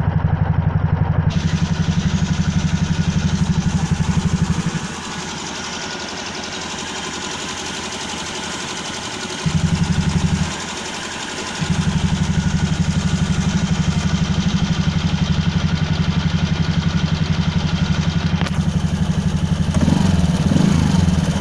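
Suzuki Hayate scooter engine idling with a steady pulsing note, an engine with a problem. Its low running note drops away twice, for about four seconds and then about a second, before coming back, and it runs unevenly near the end.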